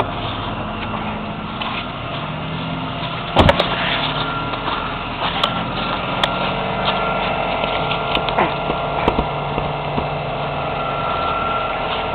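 A 1994 Toyota Camry's 2.2-litre four-cylinder engine idling steadily after a cold start. About three and a half seconds in there is one loud thump, then a few lighter knocks, from the hood being worked at while it is frozen shut.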